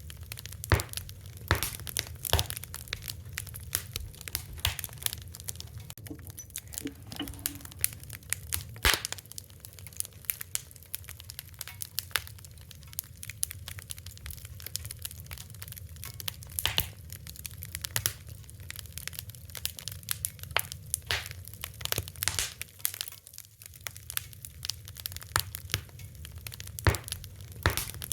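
Wood fire burning: irregular crackles and sharp pops over a low steady rumble of flame.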